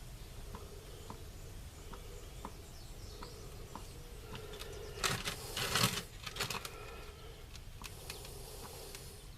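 Small hand pump on a gear-oil bottle being worked slowly to fill a differential, with faint clicks about every half second. About five seconds in there is a louder scuffing burst lasting around a second and a half.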